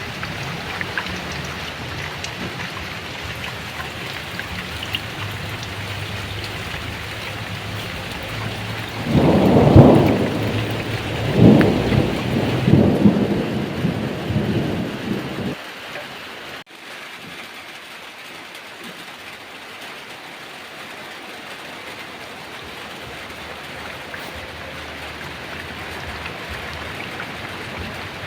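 Heavy rain falling steadily. About nine seconds in, thunder rolls through with several loud peaks, then cuts off suddenly; the rain goes on with less low rumble.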